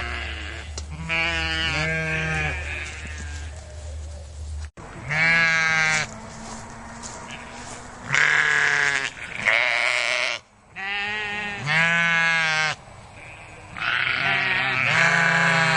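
Bleating farm animal: a string of long, wavering bleats a second or two apart, with a break in the background about five seconds in.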